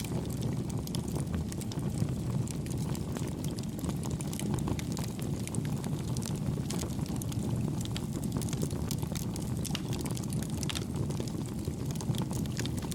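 Campfire burning, with a steady low rumble of flame and frequent small, light crackles and pops of burning wood scattered through it.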